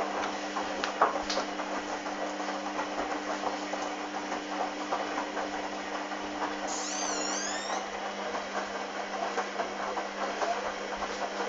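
Hoover Dynamic washing machine running mid-cycle: a steady motor or pump hum with water swishing and small knocks from the drum, one hum tone dropping out about seven seconds in. A brief warbling high whistle sounds about seven seconds in.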